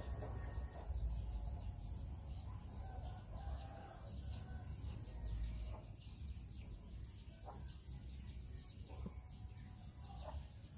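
Faint bird calls, a few short separate calls over a low background rumble.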